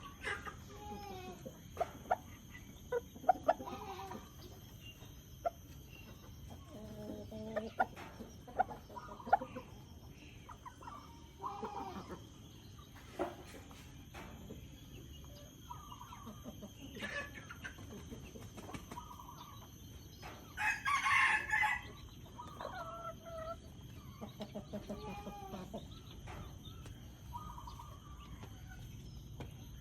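Chickens clucking as they feed, with short calls throughout and sharp taps of pecking during the first ten seconds. About two-thirds of the way through there is one louder, longer, harsher call.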